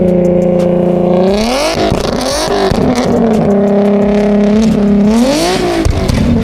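Car engine held at steady high revs during a drift in snow, revving up and back down about a second and a half in and again near the end.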